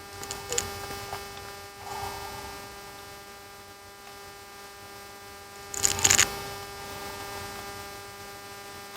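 A steady electrical hum with a few faint ticks early on, and a short burst of sharp clicks about six seconds in.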